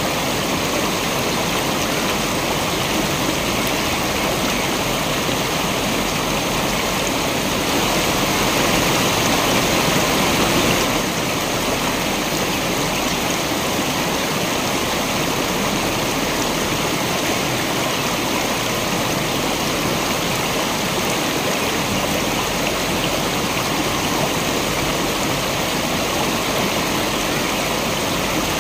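Steady rush of a waterfall, an even roar of falling water that swells slightly for a few seconds about eight seconds in.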